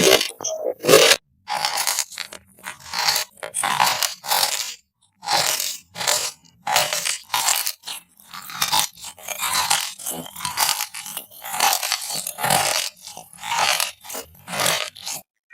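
Close-miked mukbang eating sounds: a run of crunchy bites and chews, a burst or two each second with short silent gaps between.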